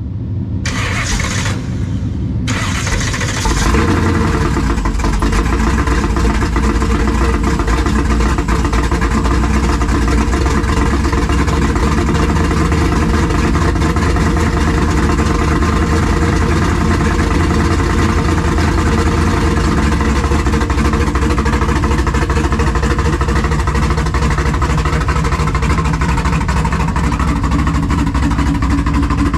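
A car engine cranks and catches in the first couple of seconds, then runs steadily.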